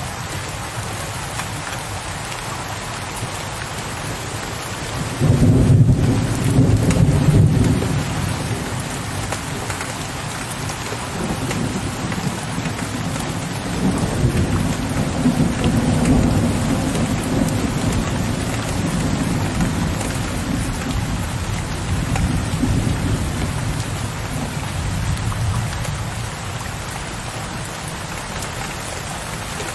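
Steady rain falling, with low thunder that breaks in suddenly about five seconds in. The thunder is loudest for the next few seconds, then keeps rumbling in rolling swells and dies away near the end.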